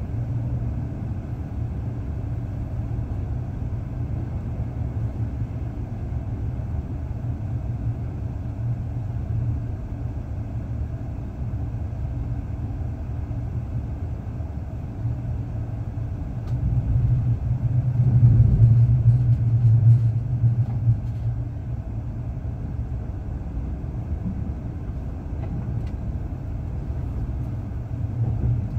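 Passenger train under way, heard from inside the carriage: a steady low rumble that swells louder for a few seconds about two-thirds of the way through.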